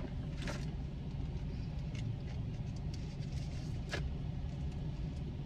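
Steady low rumble of a car, heard from inside the cabin, with a few faint clicks; the sharpest click comes about four seconds in.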